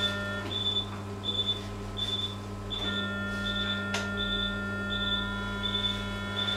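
Operating-room equipment: a medical monitor beeping at a steady rate, about three beeps every two seconds, over a constant electrical hum. A thin steady whine drops out for about two seconds near the start, and a single click comes about two-thirds of the way through.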